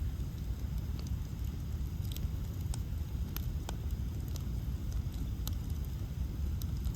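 Bonfire of burning ash logs crackling, with scattered sharp pops and snaps over a steady low rumble.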